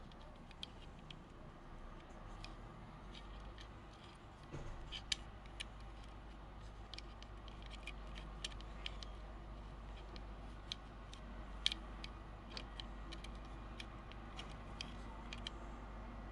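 Light, irregular clicks and taps of small plastic and metal parts being handled and fitted during model building, with a few sharper clicks about five and twelve seconds in, over a low steady hum.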